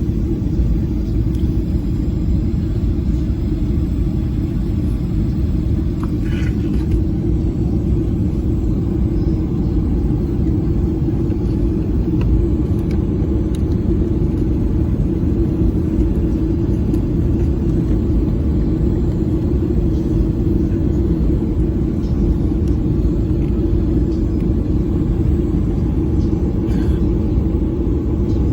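Steady low rumble of a Boeing 737's engines and airflow, heard inside the passenger cabin.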